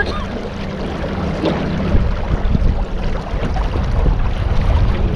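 A boat underway on the river: a steady motor drone with wind rumbling on the microphone.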